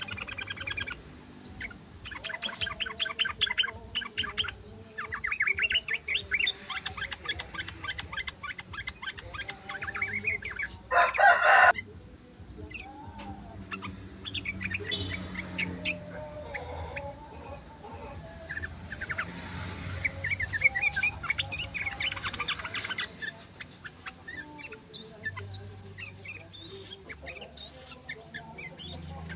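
Yellow-vented bulbul (trucukan) song: repeated bursts of quick, bubbling chattering trills. One loud, harsher call stands out about eleven seconds in, fitting a rooster crowing, and lower fowl-like sounds run beneath in the second half.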